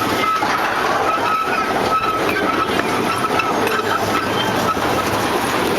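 Amusement-park ride train running along its track: a steady rumble and clatter of wheels on rails, with a faint high tone coming and going.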